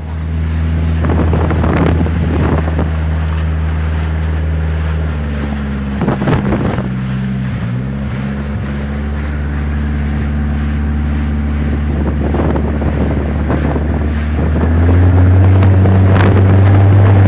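Motorboat engine running steadily, its note shifting a few times and growing louder near the end as the throttle changes. Wind buffets the microphone in gusts.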